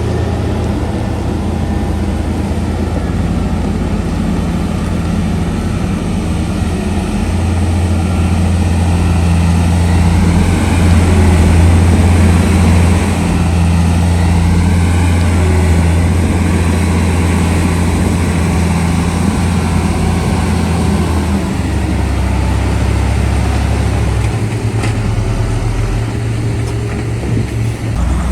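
Heavy diesel engine of earth-moving machinery running steadily with a deep engine tone. It grows a little louder toward the middle and its pitch shifts a few times.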